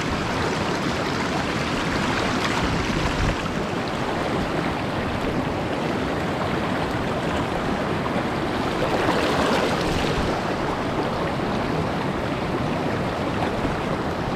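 Steady rushing of a clear mountain stream flowing over rocks, swelling a little about nine seconds in.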